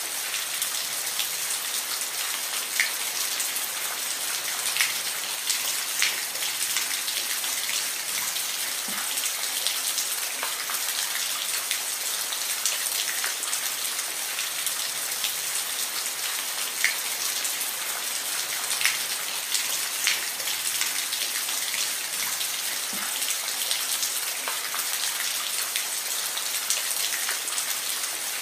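Steady rainfall: a dense even hiss of rain with scattered individual drops ticking close by.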